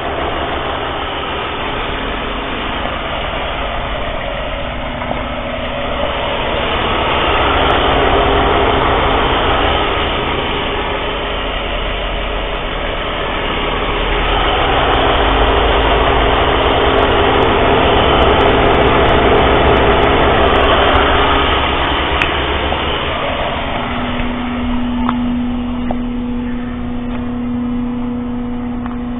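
BMW M54B25 2.5-litre straight-six running at idle on a high-mileage engine with about 280,000 km on it. It grows louder twice for several seconds. Near the end the wide noise fades, leaving a steady hum.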